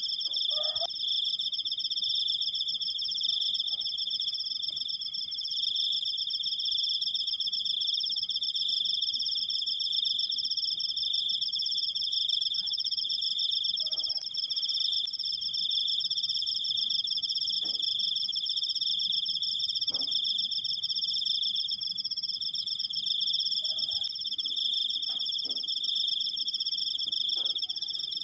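Cricket singing a continuous, long high-pitched trill made of very rapid pulses, steady and unbroken throughout.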